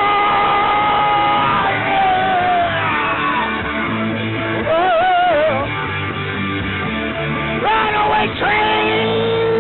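Live rock band playing with electric guitar and bass. Held notes bend and waver above the band, along with wordless yelled singing.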